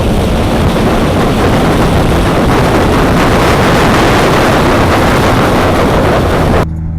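Car accelerating hard as it comes past, its engine and exhaust loud and steady. The sound cuts off abruptly near the end.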